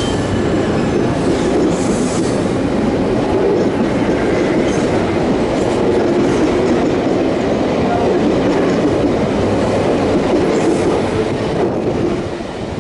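Toshiba electric multiple unit passing close alongside the platform: a steady, loud rumble of its wheels running on the rails with a light clatter. The sound eases slightly near the end.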